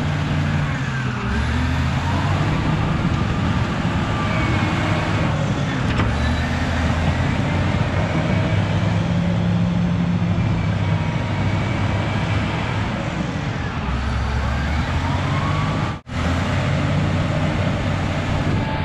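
Cat D6H bulldozer's six-cylinder diesel engine running under changing load, its pitch shifting up and down as it works, with thin rising and falling squeals over the top. The sound cuts out for an instant about three-quarters of the way through.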